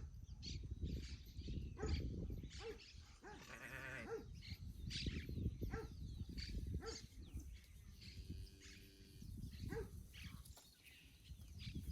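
Livestock bleating twice, one wavering call about four seconds in and a shorter one past the middle, over irregular clicking and rustling.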